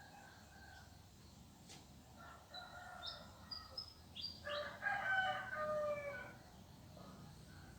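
A rooster crowing, one long call loudest a little past the middle, with fainter fowl calls and small birds chirping just before it.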